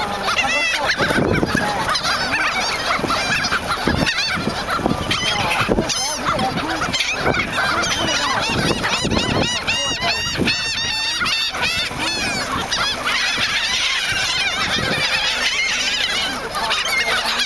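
A flock of seagulls calling at close range: many short, squawking calls overlapping one another without a break, as the birds crowd in to be fed.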